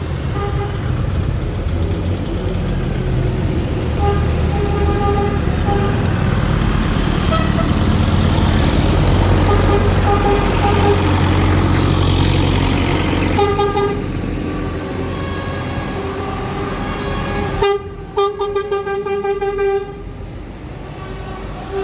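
Tractors and lorries driving past with engines running and horns tooting again and again. The engine noise swells in the middle, and a fast-pulsing horn sounds for a couple of seconds near the end.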